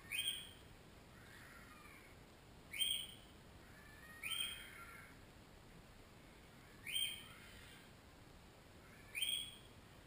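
A bird giving five short calls, a couple of seconds apart, over a faint steady hiss.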